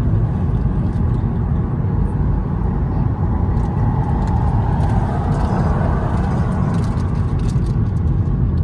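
A car driving along: loud, steady engine and road noise.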